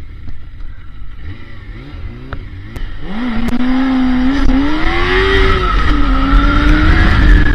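Kawasaki ZZR400's inline-four engine pulling away. It runs low for the first few seconds, then about three seconds in the revs climb and settle into a steady high note as the bike rides off, with wind rumbling on the microphone.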